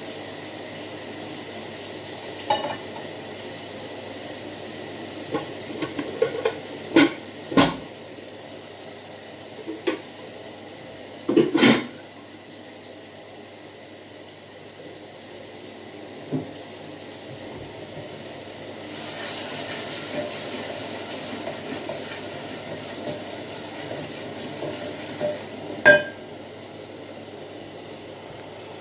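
Kitchen work with pots and utensils: scattered clinks and knocks of cookware and cutlery, with a steady hiss coming up about two-thirds of the way through.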